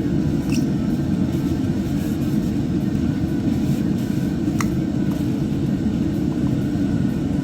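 Steady low rumbling background noise, with a faint sharp tick about four and a half seconds in.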